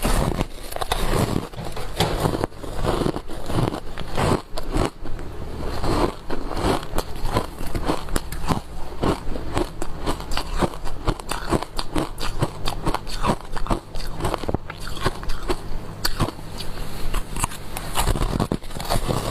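Close-up biting and chewing of frozen matcha green tea powder ice: a dense, continuous run of crisp crunches.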